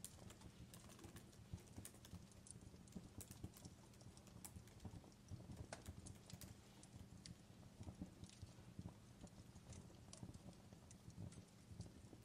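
Fireplace fire crackling faintly, with irregular sharp pops and snaps over a low rumble.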